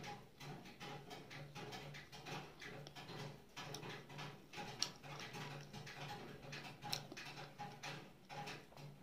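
Close-up chewing of cooked white corn kernels: soft wet mouth sounds and smacks, with two sharper clicks about five and seven seconds in.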